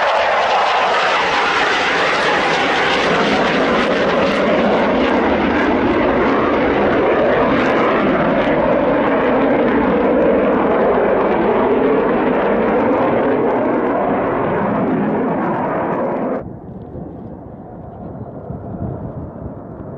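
Loud, continuous jet engine noise of a fighter jet making a low pass, its hiss slowly dulling as it goes. It cuts off abruptly about sixteen seconds in, giving way to a much quieter noise.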